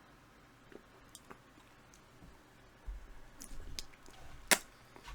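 Faint clicks and mouth sounds of someone sipping and swallowing beer, with low handling bumps and one sharp click about four and a half seconds in.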